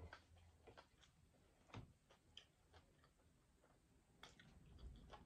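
Near silence with faint, scattered mouth clicks of someone chewing a bite of pizza, and one sharper click right at the start.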